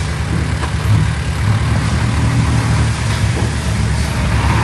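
Heavy diesel engine of earthmoving machinery running steadily, a deep low drone.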